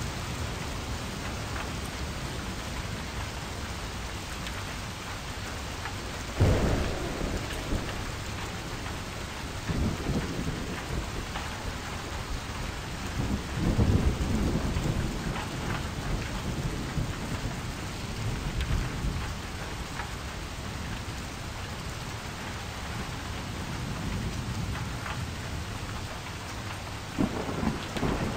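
Steady rain with several low rolls of thunder. The sharpest starts suddenly about six and a half seconds in, and longer rumbles follow around ten and fourteen seconds.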